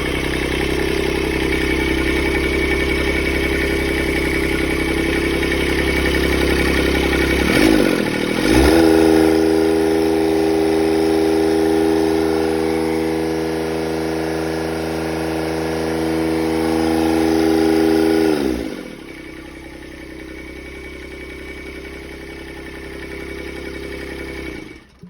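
Kubota D782 three-cylinder diesel engine running on a test start: it idles, speeds up about eight seconds in and holds a higher steady speed for about ten seconds, then drops back to a quieter idle and stops just at the end.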